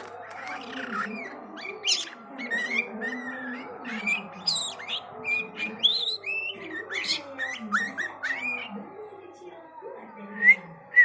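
Young white-rumped shama singing a fast, varied run of short whistled notes and chirps that sweep up and down in pitch, easing off near the end.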